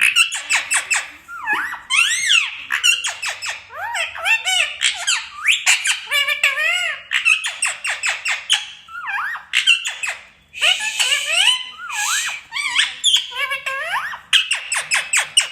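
A parrot chattering and whistling: a rapid, nearly continuous stream of high-pitched chirps and short rising and falling whistles.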